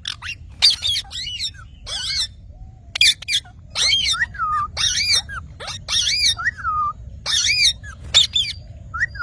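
A green parrot calling in a quick run of short squawks and chirps, many arching up and then down in pitch, with brief gaps between them.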